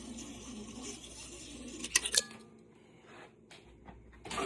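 MIG welding wire being pulled out through the welder's gun cable liner, with a faint scraping rub, then a couple of sharp metallic clicks about two seconds in.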